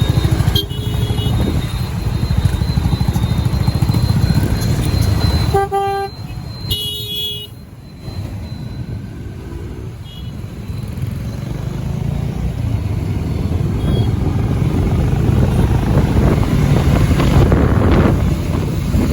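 Motorcycle engine running close to the microphone, with horns from surrounding traffic tooting several times, the loudest about six and seven seconds in. The engine's beat drops away near the middle, then a rising rush of road and wind noise builds toward the end as the bike picks up speed.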